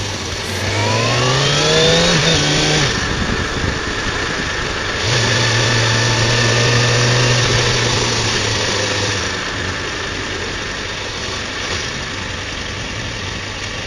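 Motorcycle engine accelerating, its note climbing for about two seconds, then running steadily under wind noise and easing to a lower, quieter note in the second half, slowing for traffic.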